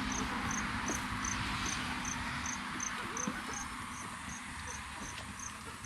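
A cricket chirping steadily outdoors, short high chirps repeating evenly at nearly three a second.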